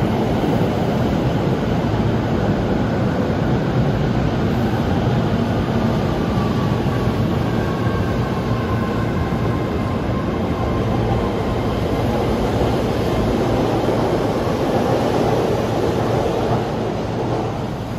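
Keio 7000 series electric commuter train rolling slowly past the platform: a steady rumble of wheels and running gear, with a faint falling whine about seven to ten seconds in, and the sound easing slightly near the end.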